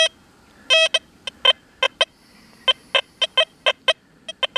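XP Deus 2 metal detector giving a rapid, uneven run of short high beeps as its coil is swept over a thin iron nail.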